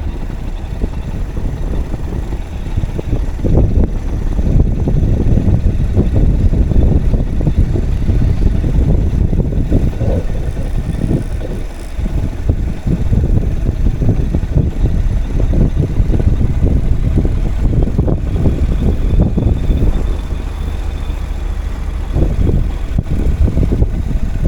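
Wind buffeting the camera's microphone: a loud, uneven low rumble that swells and dips.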